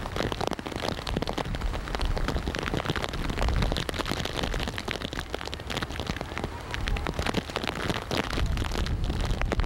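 Steady rain falling, many drops striking close to the microphone, with a low rumble underneath.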